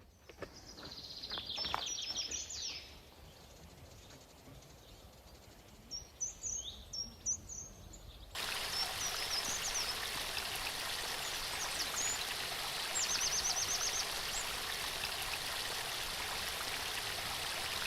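Small birds chirping and trilling. About eight seconds in, a steady rushing noise, like running water or wind, starts abruptly and carries on under the birdsong.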